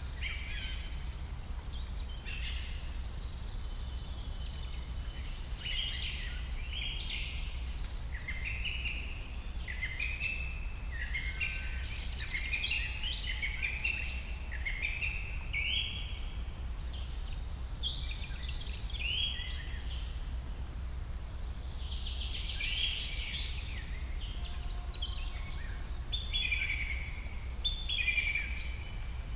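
Songbirds chirping and singing in short overlapping phrases, one after another, over a steady low background hum.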